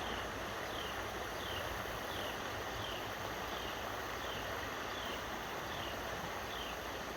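Steady rush of river water flowing below a dam. A faint, short high chirp repeats about every two-thirds of a second.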